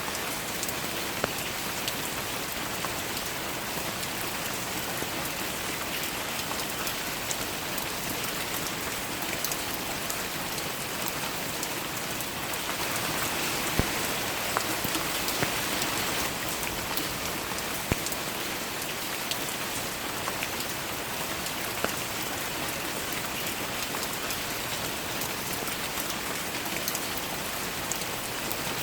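Steady rain with many scattered drops ticking close by; a few louder single drops stand out in the middle.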